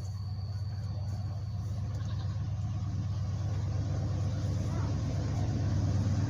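A vehicle engine running with a steady low hum that grows gradually louder.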